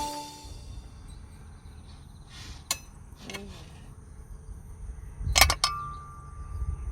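Metallic clinks, a couple of light ones in the first half and a louder cluster about five and a half seconds in that rings briefly, over the low rumble of wind on the microphone and a steady high insect chirring.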